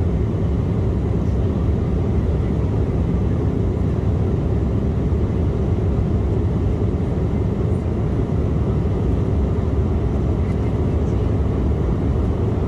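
Steady low rumble inside the cabin of an Embraer E175 airliner, from its GE CF34 turbofan engines and the rushing air.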